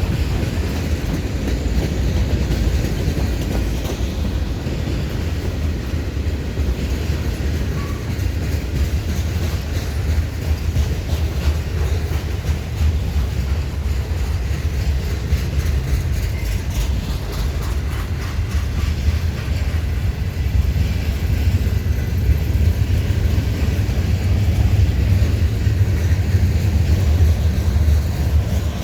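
Manifest freight train rolling past: a steady low rumble with wheels clicking over rail joints, a little louder near the end.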